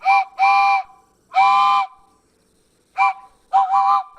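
Steam locomotive whistle blowing as the engine sets off: three blasts, the last two longer, then a quick run of four short toots near the end. Each blast is a steady, breathy chord.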